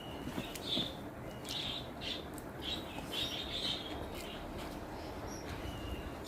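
A person eating and chewing a rice meal, with irregular short wet smacking and clicking mouth sounds.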